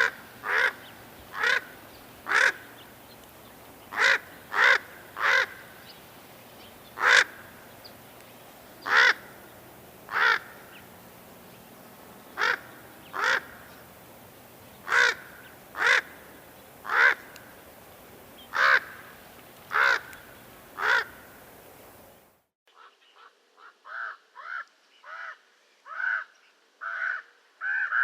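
Common raven calling: a long series of short, hoarse calls, about one to two a second. About 22 seconds in, the background hiss drops away and a quicker run of calls begins from a different recording.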